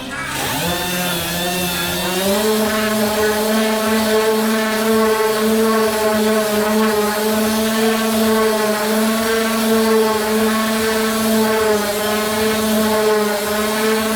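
Handheld power tool motor spinning up over the first two seconds, then running at a steady high whine until it cuts off suddenly.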